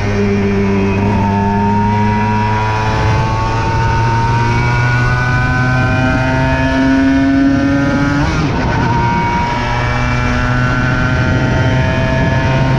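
Aprilia RS 125's single-cylinder engine under way, its pitch climbing slowly as it accelerates. A short break about eight seconds in, as in a gear change, is followed by another slow climb.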